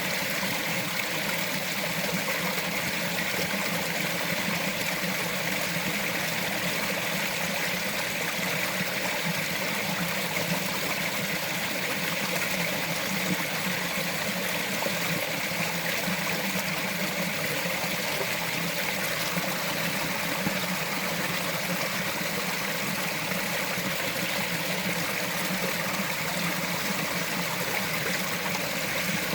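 A small mountain forest stream flowing and trickling over rocks, a steady, even rush of water.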